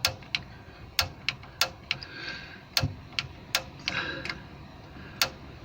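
Piezo igniter on a gas water heater's pilot clicking sharply about ten times at uneven intervals: repeated sparks to light the pilot.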